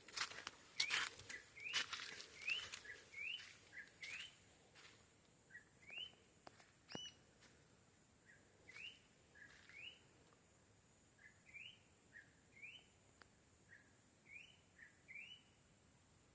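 A bird calling over and over with short rising chirps, about one a second, after a burst of sharp crackling clicks in the first two seconds. A faint steady high-pitched tone runs underneath.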